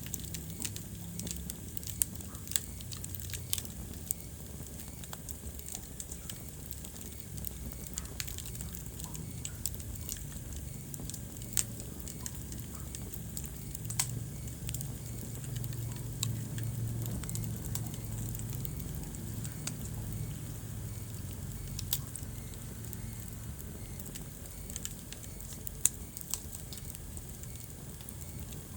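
Wood fire burning in a fireplace, crackling steadily with sharp pops every few seconds over a low rumble of flame.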